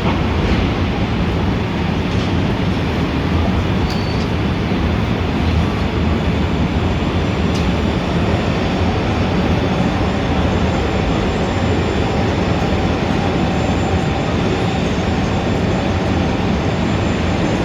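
Steady, dense city traffic noise with a constant low rumble and no distinct events, apart from a brief faint high beep about four seconds in.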